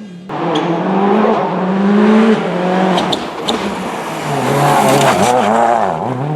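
Rally car engine at high revs going past close by, its pitch climbing and dropping several times as the driver works through the gears. A few sharp cracks come in the middle of the pass.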